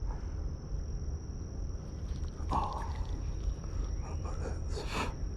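Steady high-pitched insect drone, like crickets, over a low outdoor rumble, with two brief louder noises about two and a half and five seconds in.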